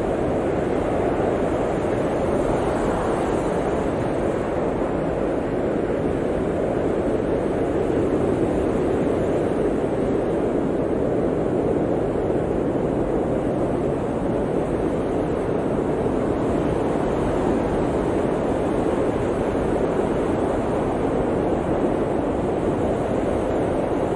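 Steady blizzard wind, a constant low rushing noise that rises and falls only slightly.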